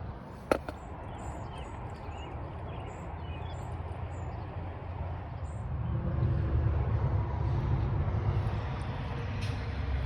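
Small-block 327 Corvette V8 with a dual-quad tunnel ram and fender-well headers running at a steady idle, a low pulsing rumble that gets somewhat louder about six seconds in. A single sharp click about half a second in.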